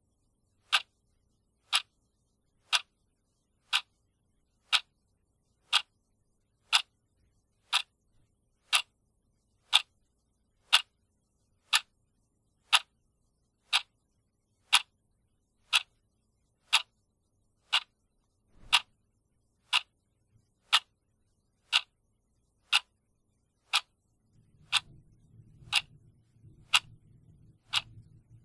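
Clock ticking steadily, one sharp tick a second. A faint low hum comes in near the end.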